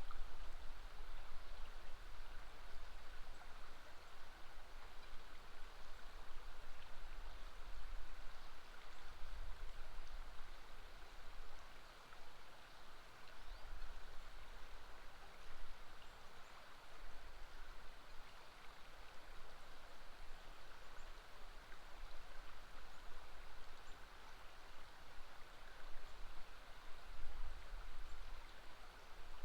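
Steady rushing of a river flowing, an even wash of water sound with an uneven low rumble underneath.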